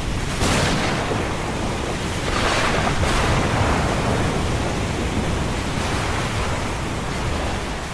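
Ocean surf washing continuously, with waves breaking and surging about half a second in and again around two to three seconds in.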